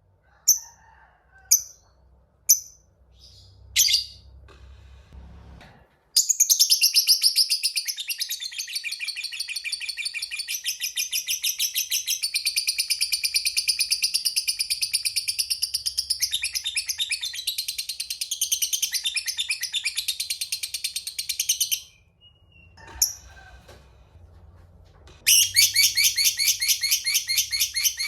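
Lovebird calling: a few sharp single chirps about a second apart, then a long, rapid, high chattering trill, the 'ngekek' song, running about sixteen seconds. After a short break another long chatter starts near the end.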